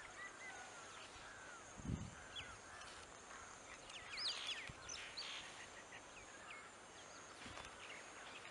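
Wild birds chirping and whistling in short, curving notes, busiest around four to five seconds in. A single low thump comes about two seconds in.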